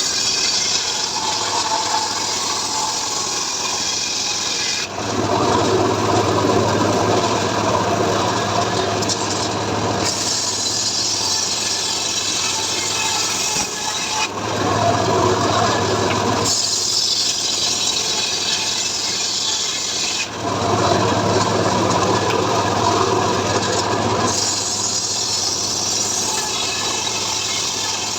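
Homemade sawmill ('gergaji srekel') sawing mahogany, its motor humming steadily throughout. The cutting noise keeps switching, every four to six seconds, between a high hiss and a lower, heavier rasp.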